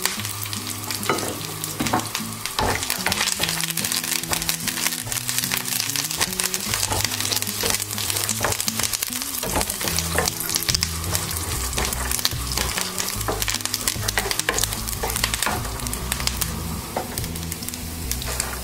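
Peanuts, cashews and curry leaves sizzling and crackling in hot oil in a nonstick frying pan, with many sharp pops, while a spatula stirs them around the pan.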